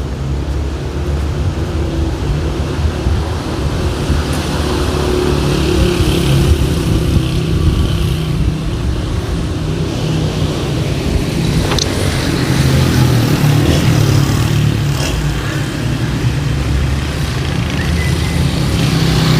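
City street traffic: vehicle engines running and passing, with a steady low engine rumble throughout. A short sharp click is heard about twelve seconds in.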